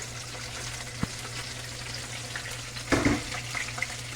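Steady sizzle of food frying in oil on the stove, with a sharp click about a second in and a short louder clatter just before three seconds.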